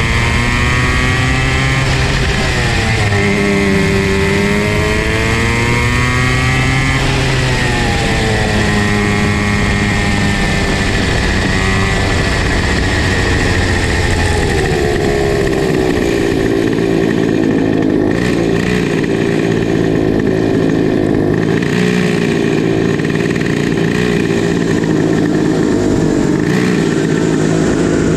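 Comer C50 two-stroke go-kart engines running, their pitch sweeping down and up with the throttle. About halfway the note settles lower and steadier.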